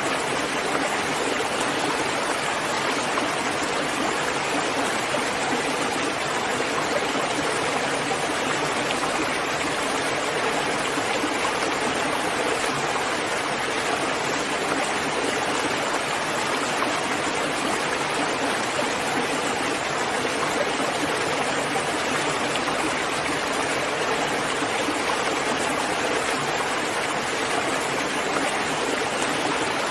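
Steady heavy rain: a dense, even hiss with no single drops standing out and no change in level.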